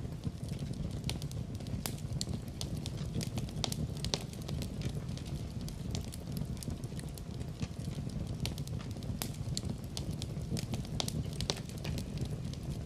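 Fire in a fireplace crackling, with frequent irregular sharp pops and snaps over a steady low rumble of burning.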